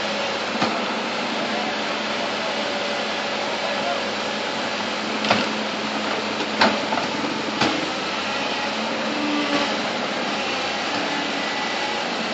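Bulldozer's diesel engine running steadily, with a few sharp knocks in the middle.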